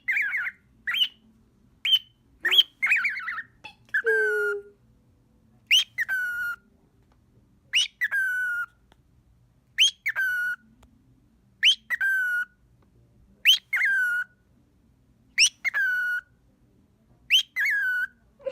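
Pet bird calling: a run of quick chirps over the first few seconds, then the same two-part call repeated about every two seconds, seven times, each a sharp upward squeak falling into a lower held whistle.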